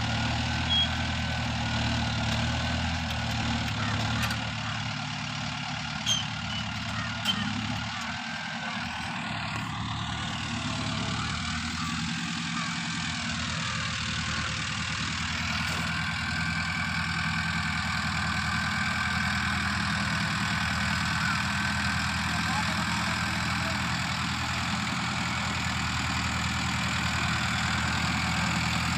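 Tractor engine idling steadily, with a few sharp clicks about a second in and around six and seven seconds in.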